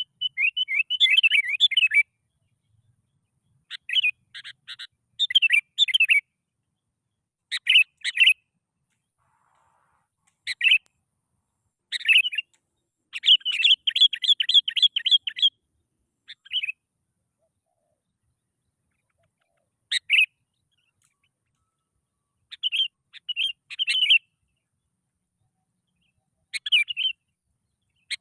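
Sooty-headed bulbul singing: short phrases of chirping notes, one of them, about halfway through, a quick run of repeated notes, with silent gaps of one to a few seconds between phrases.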